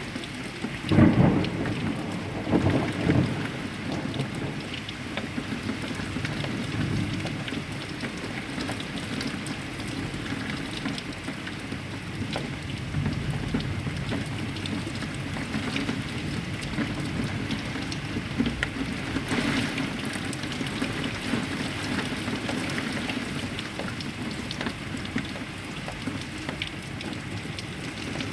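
Heavy rain falling steadily in a thunderstorm, with two loud claps of thunder about a second in and again a couple of seconds later, then the rain continues.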